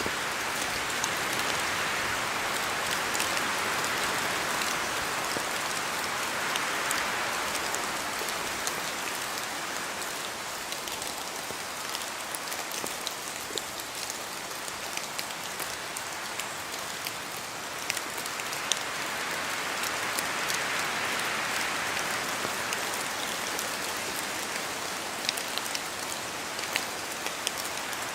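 Steady rain falling in a spruce forest, a constant hiss of drops with scattered sharper drips landing close by. Wind through the spruce trees swells the rushing sound twice, early on and again about two-thirds of the way through.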